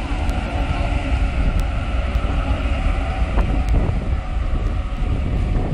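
Sydney Trains Waratah (A set) double-deck electric train pulling in beside the platform: a steady rumble of wheels on rails and running gear, with a few faint clicks.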